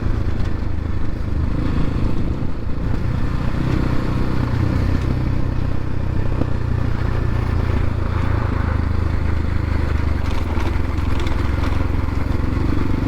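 X-Pro Templar X 250 dirt bike engine running steadily as the bike is ridden along a dirt road.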